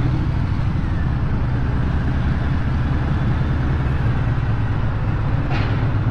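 Harley-Davidson V-twin motorcycle engine running steadily with a deep, even exhaust note and no revving.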